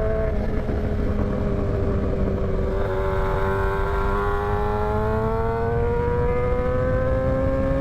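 Motorcycle engine running under steady throttle while riding, its note dipping slightly about three seconds in and then climbing slowly, over a constant rush of wind and road noise.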